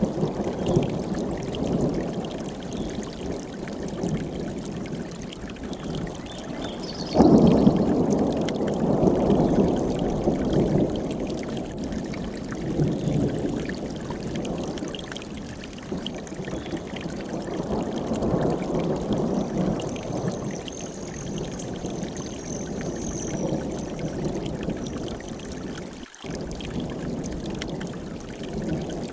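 Mountain stream rushing over rocks in a steady, full, low wash that swells and ebbs. It jumps suddenly louder about seven seconds in.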